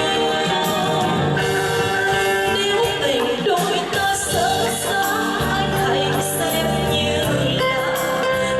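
A woman singing a Vietnamese ballad over instrumental accompaniment.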